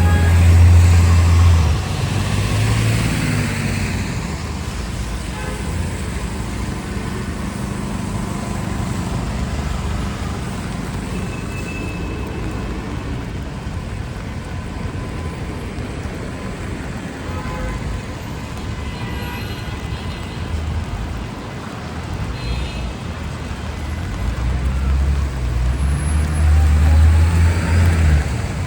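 City street traffic on rain-wet pavement: a heavy vehicle's engine passes close in the first couple of seconds and another about 24 seconds in, over a steady hiss of tyres and rain.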